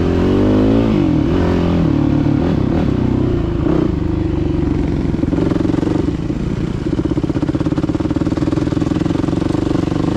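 Dirt bike engine running under a rider: it comes off a rev with the pitch dropping in the first second or two, then runs at a steady pitch, settling into an even, rapid putter over the last few seconds.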